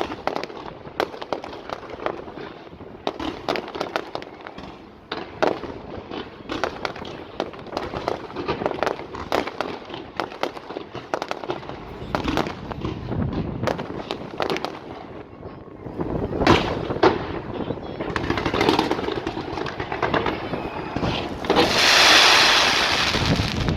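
Fireworks display going off: a rapid run of sharp cracks and bangs, with deeper booms from about halfway, two loud bangs in quick succession, and a loud hissing crackle lasting about two seconds near the end.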